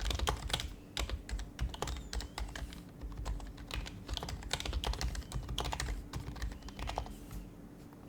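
Typing on an HHKB Professional HYBRID Type-S keyboard, its silenced Topre keys giving soft, muffled clacks in quick runs with short pauses. The typing stops shortly before the end.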